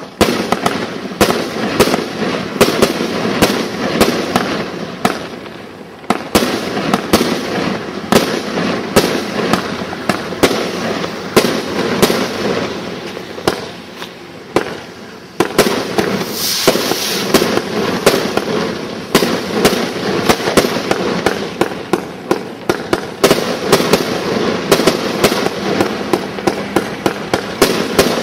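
A multi-shot fireworks cake firing a rapid barrage: a dense run of sharp launch and bursting reports, one after another. It eases a little just past the middle, then fires harder again.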